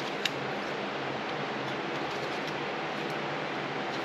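A light metallic click about a third of a second in, then a few faint ticks, as a throttle butterfly valve is shifted in its shaft to line it up, over a steady background hiss.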